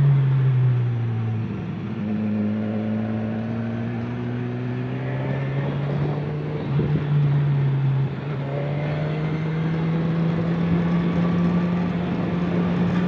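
Motor vehicle engine running steadily. Its pitch drops just after the start, then steps up about six seconds in and again about eight seconds in.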